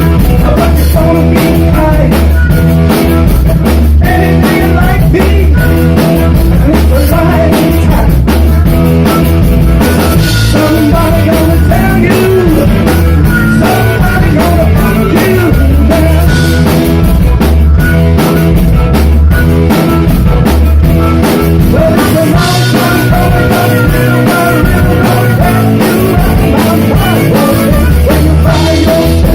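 A live rock band playing a song, loud and steady, with drums and guitar.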